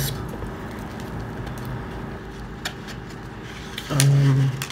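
Close-miked chewing of pizza with a few small clicks, and a short hummed voice sound about four seconds in.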